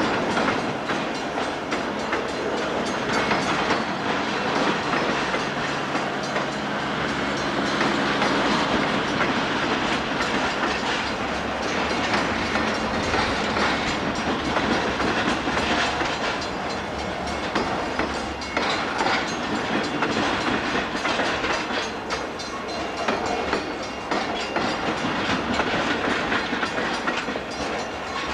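Freight train cars rolling slowly across a rail diamond. The wheels clack steadily over the diamond crossing amid continuous rumble and rail noise.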